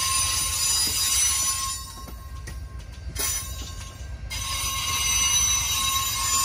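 Train rolling past, its wheels squealing on the rails in steady high tones over a low rumble. The squeal drops away for about two seconds in the middle and then comes back.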